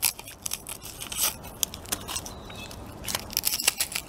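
Close-miked crunching and chewing of raw onion: crisp, crackly clicks in clusters, loudest near the start, about a second in, and again between three and four seconds in.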